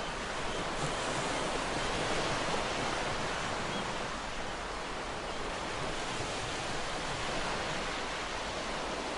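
Ocean waves washing onto a shore: a steady, dense rush of surf that swells gently and eases off.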